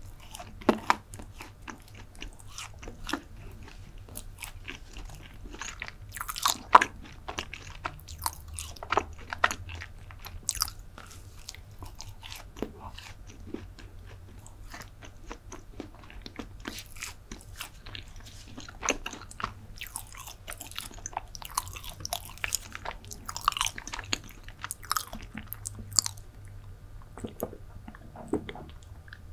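Close-miked chewing of chocolate chip brownie, wet mouth sounds with irregular sharp clicks and smacks. Near the end, sipping and swallowing a drink.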